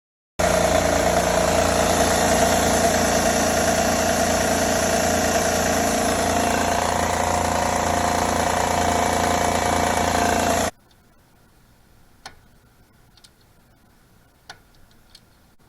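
Honda V6 engine running with a tapping noise that the owner traced to the rear-bank timing belt area. The engine sound cuts off suddenly about eleven seconds in, followed by a few faint clicks.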